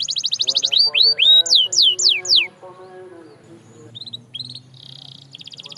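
Canary singing: fast runs of repeated downward-sweeping whistled notes that break off about two and a half seconds in. A few short notes and a buzzy note follow, then another rapid trill starts near the end.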